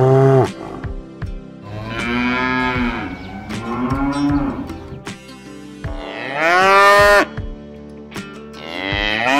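Cows mooing, about five long moos one after another. The loudest comes about six seconds in, rising in pitch, and the last is still going at the end.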